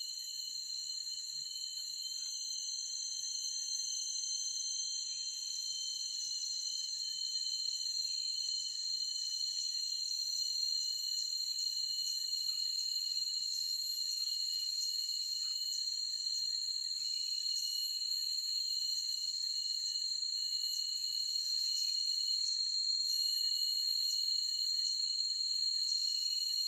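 Forest insect chorus: several steady, high-pitched trills layered together. The strongest holds one pitch throughout, and the whole chorus grows slightly louder.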